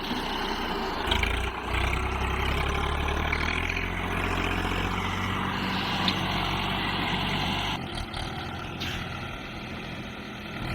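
Tractor engine running steadily under load, with a noisy, rattly spread of sound over its low drone; the sound changes suddenly and gets somewhat quieter about eight seconds in.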